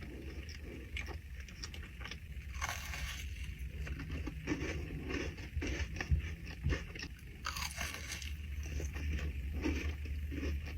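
A person chewing and biting into a Crumbl cookie: irregular soft crunches and mouth clicks over a steady low hum, with two louder, longer bursts about three and eight seconds in.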